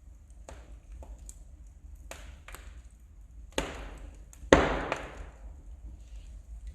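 Wood fire crackling in a fireplace: scattered small snaps, then two louder pops a little past the middle. The second pop is the loudest and trails off in a short hiss.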